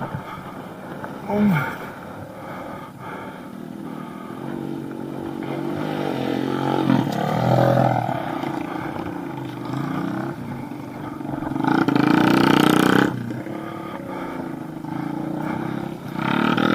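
Small pit bike engine running and revving, its pitch rising and falling, loudest about twelve seconds in.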